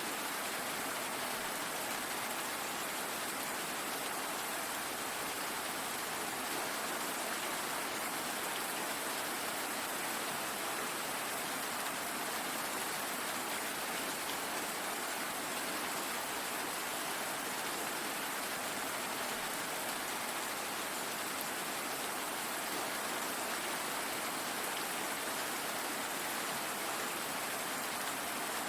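Steady rain falling, a constant even hiss of drops with no change in intensity.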